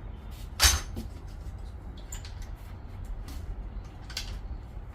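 The 140cc pit bike engine being kicked over on brake cleaner without catching: one short loud turn-over about half a second in, then a few fainter clicks.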